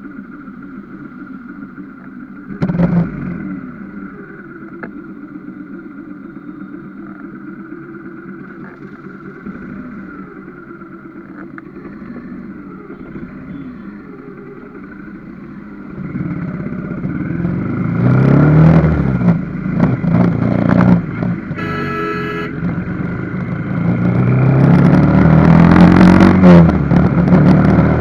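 Vehicle engine and road noise from a ride, steady for most of the first half with a short loud burst about three seconds in. From about halfway the sound grows much louder, with the engine note rising and falling. A brief horn-like tone sounds near the end.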